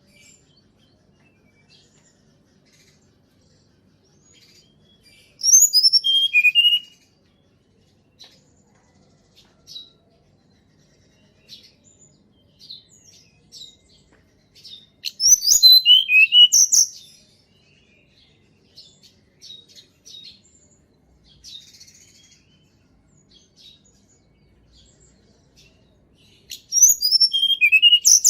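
Hill blue flycatcher singing: three loud, quick phrases of high whistled notes that step down in pitch, roughly ten seconds apart, with soft scattered notes in between.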